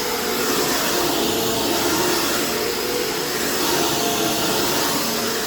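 Dirt Devil Featherlight Jaguar upright vacuum cleaner with a 12-amp bypass motor, running steadily while vacuuming: a continuous rushing hiss with a few steady hum tones under it.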